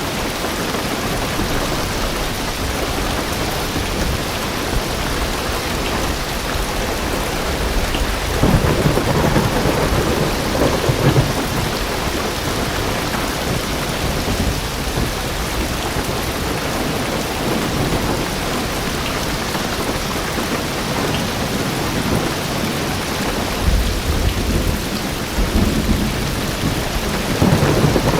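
Heavy rain drumming steadily on a car's roof and windows, heard from inside the car. Deep rumbles of distant thunder swell up about eight seconds in and again near the end.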